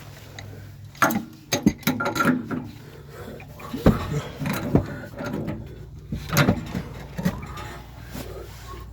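Irregular metal clanks and knocks of hand tools against plumbing fittings, with a cluster of sharp knocks about a second in and loud single knocks near the middle and about two-thirds through.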